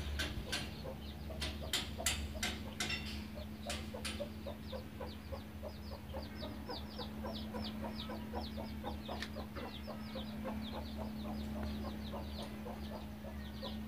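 A bird chirping in a rapid series of short, high, falling notes, several a second, from about four seconds in. Under it runs a steady low hum, and there are scattered clicks in the first few seconds.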